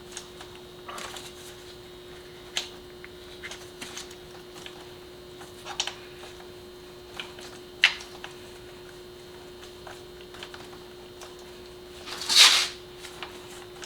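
Light metallic clicks and scrapes of a spark plug socket and extension turned by hand, threading a new spark plug into the cylinder head, with a louder rustle about twelve seconds in. A faint steady hum runs underneath.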